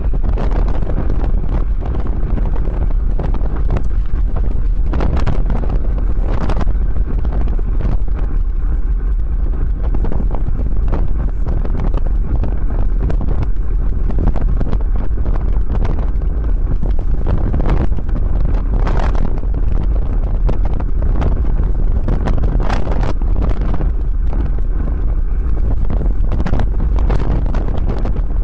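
Wind buffeting the microphone of a camera riding along on a moving bicycle: a steady, loud low rumble with frequent brief gusts.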